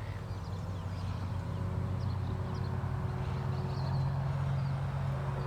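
Radio-controlled model boat's motor running steadily under way, a low hum with a faint thin whine above it, getting a little louder through the middle.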